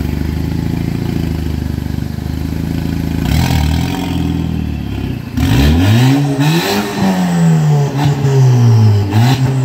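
2.0T Audi A4's turbocharged four-cylinder, fully straight-piped behind a catless downpipe, idling and then revved. It gives a short blip about three seconds in, a bigger rev that rises and falls back over a few seconds, and another short blip near the end.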